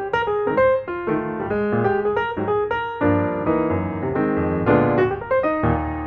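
Background music: piano playing a melody over chords.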